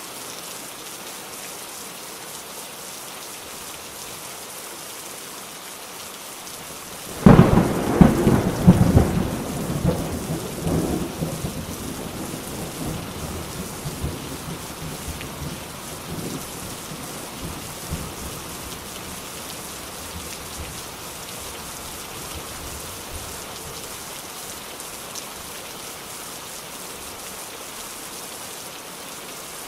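Steady rain falling. About seven seconds in, a sudden loud thunderclap cracks and rumbles, dying away over about ten seconds.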